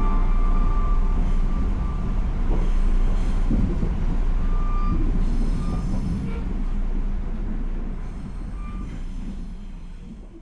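A train running, a heavy steady rumble with a few brief high squeals, fading out over the last couple of seconds.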